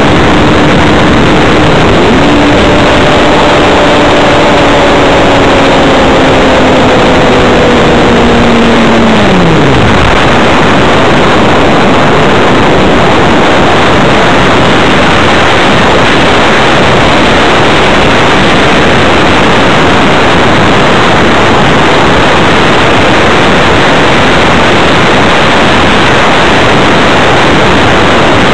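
Airflow rushing loudly over an onboard camera on an electric hotliner model plane. For the first nine seconds or so the brushless motor and propeller give a steady whine, which then winds down quickly and stops, as when the throttle is cut. After that only the wind noise of the gliding plane remains.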